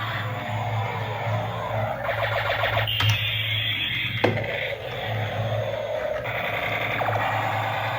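Small electric motor of a remote-control toy running with a steady hum, with two spells of fast gear rattle and two sharp clicks.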